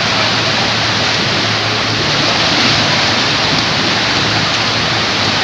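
Steady rush of water pouring out of tube waterslide exits into the splash pool.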